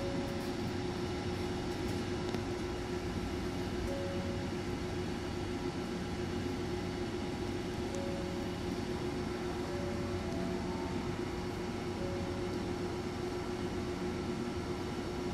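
Steady hum of a Hankyu train standing at a platform with its doors open: the car's air conditioning and electrical equipment run with a low steady tone. Faint short tones sound every few seconds.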